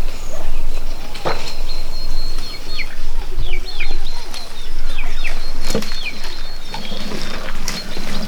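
Small birds chirping in a run of short, quick downward-sliding calls, over a steady low background noise, with a couple of sharp knocks.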